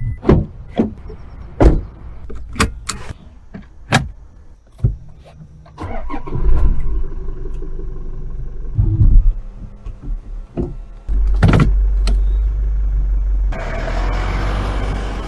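Toyota Land Cruiser 2024 with its 2.8-litre four-cylinder turbodiesel: a run of sharp clicks and knocks, then the engine starts about six seconds in and runs with a low rumble. The rumble gets louder about eleven seconds in, and a rush of noise joins it near the end.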